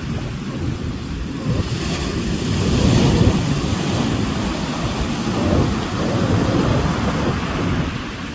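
Ocean waves breaking and washing ashore, a continuous rushing surge that swells loudest about three seconds in and again a little past five seconds, with a low wind rumble on the microphone.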